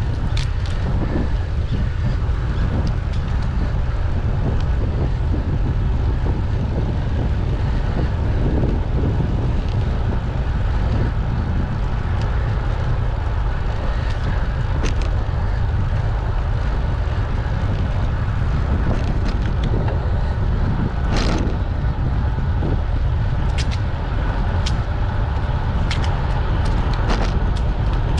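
Wind rushing over the microphone of a moving bicycle, a steady low rumble, with road and tyre noise under it and scattered sharp clicks and rattles, more of them in the last third.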